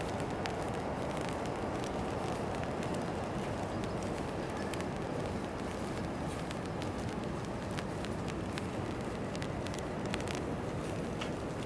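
Rain falling: a steady hiss with many small, scattered ticks of drops.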